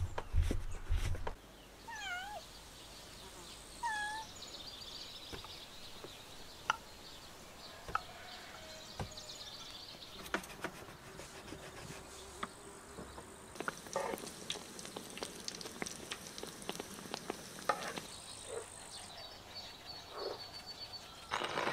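Countryside ambience: insects buzzing with a faint steady high whine, scattered small clicks, and two short curved animal calls about two and four seconds in. A few dull low knocks come in the first second.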